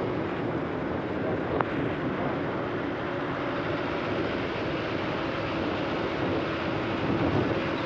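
Steady road and engine noise of highway traffic, with wind on the microphone.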